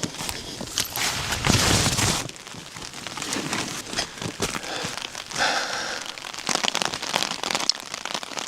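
Rain pattering, full of small sharp crackling taps, with a louder surge of noise between about one and two seconds in.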